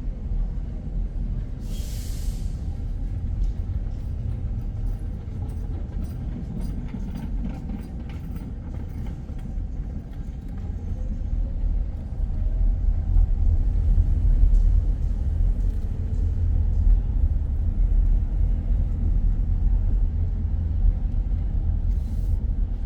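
Low rumble of a car driving on city streets, growing louder about halfway through, with a short hiss near the start and another near the end.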